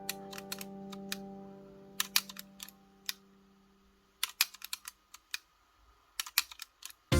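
A held piano chord fades out over the first few seconds while irregular sharp clicks and taps sound, some singly, some in quick clusters. Loud music cuts in right at the end.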